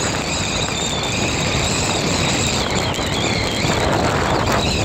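Storm wind buffeting a phone's microphone: a steady loud rushing roar with a faint wavering high whistle over it.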